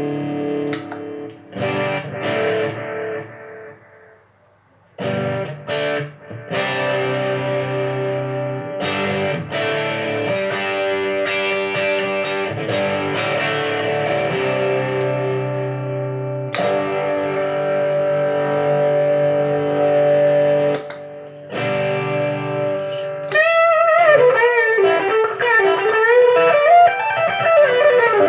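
Electric guitar through a Marshall AVT50 amp, playing chords that are left to ring, with short breaks between them. From about 23 seconds in, a Dunlop Cry Baby GCB95 wah pedal is rocked back and forth, sweeping the tone up and down.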